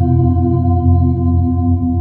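Ambient meditation drone: sustained low tones with a singing-bowl-like ringing tone whose upper overtones are fading away, and a gentle pulsing in one of the low tones.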